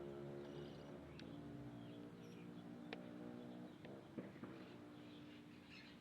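Faint small bird chirps and a few sharp clicks over a low, steady droning tone.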